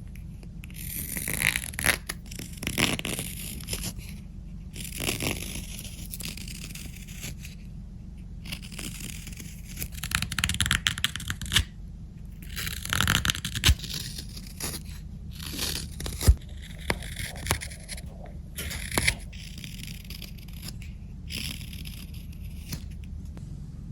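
A carving knife taking shallow shaving cuts in the bowl of a dried wooden spoon: a series of short rasping scrapes with pauses between, one or two sharp clicks among them, over a steady low hum.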